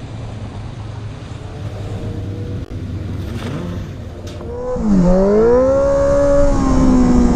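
Low steady rumble, then a vehicle engine accelerating about five seconds in: its pitch dips, climbs and holds high, becoming the loudest sound.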